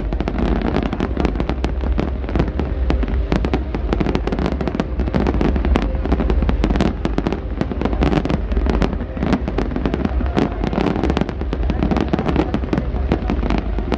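Aerial fireworks display at full intensity: shell bursts and crackling bangs coming many times a second, overlapping into one continuous barrage with no pause.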